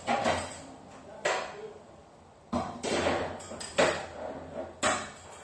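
Metal banging on garage-door hardware, about five sharp clanks roughly a second apart, each ringing briefly.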